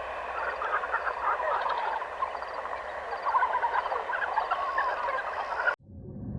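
A flock of domestic fowl calling, many short overlapping calls forming a busy chatter. It cuts off suddenly near the end, and a low rumble follows.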